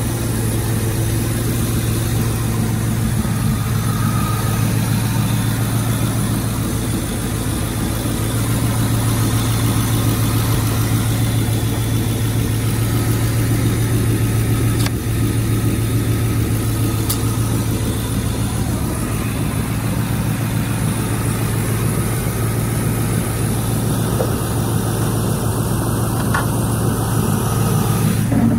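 Ford Mustang's 4.6-litre V8 idling steadily, heard close up over the open engine bay.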